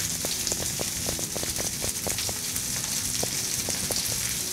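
Chopped onions, green chilies and mustard and cumin seeds frying in hot oil in a wok: a steady sizzle with frequent small irregular crackles and pops.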